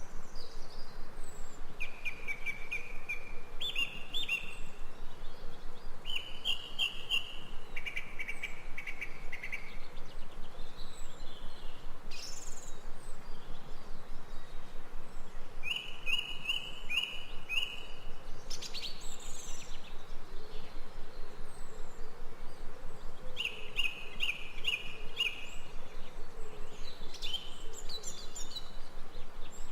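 Jungle ambience: birds singing groups of short repeated notes every few seconds over a steady, rapidly pulsing insect chorus.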